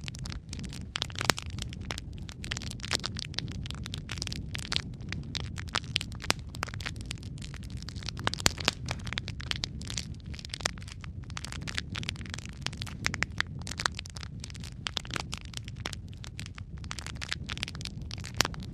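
Logs burning in a fireplace: irregular sharp crackles and pops over a steady low rumble of the flames.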